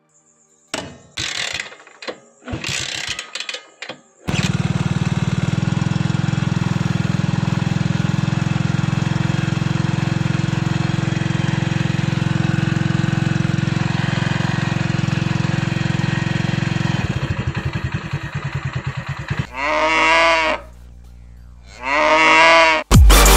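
Dubbed-in motorcycle engine sound: a few short bursts, then the engine catches about four seconds in and idles with a fast, even beat, slowing to spaced beats and cutting out. A cow then moos twice, each about a second long.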